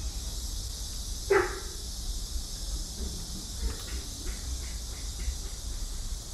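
A cat gives a single short meow about a second in, over a steady hiss and a low rumble.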